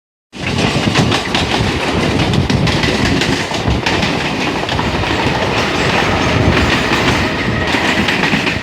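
Wheels of a Bombardier electric multiple unit (Mumbai suburban local train) clattering over the rail joints at speed, heard from on board with steady rushing running noise and a faint steady whine.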